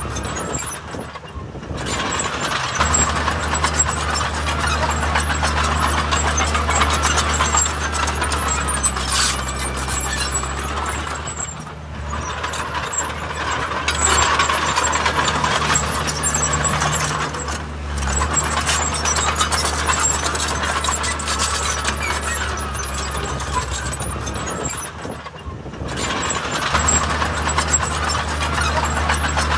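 Heavy diesel earthmoving machinery running under load, a steady engine hum with dense mechanical noise that eases off briefly a few times.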